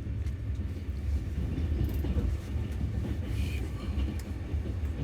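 Passenger train running, heard from inside a carriage: a steady low rumble with a few faint ticks from the wheels and the car.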